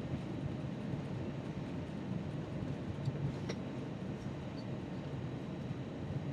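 Steady low rumble of an Airbus A321's engines and cabin, heard from inside the passenger cabin, with a couple of faint clicks about three seconds in.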